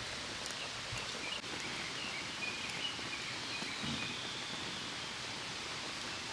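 Quiet outdoor ambience: a steady hiss with a few faint clicks near the start and faint, wavering high chirps through the middle.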